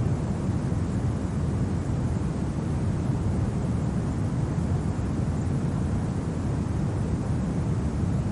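Steady winter wind ambience: an even, low rumbling rush with no gusts, tones or clicks.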